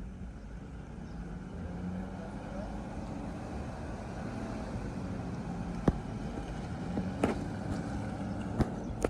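2013 Chevrolet Silverado 1500 pickup on a test drive: a steady low engine and road rumble. There are four sharp clicks in the second half.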